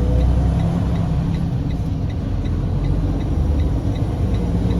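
Semi-truck diesel engine running steadily, heard from inside the cab, with a faint fast ticking over the low drone.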